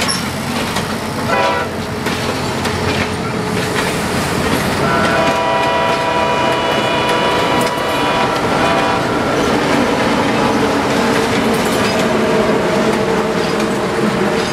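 Diesel-hauled passenger train passing close by: steel wheels clacking over rail joints under the rumble of the cars, with a short horn note about a second in and a longer horn blast of about four seconds from around five seconds in. Near the end the diesel switcher locomotive's engine passes.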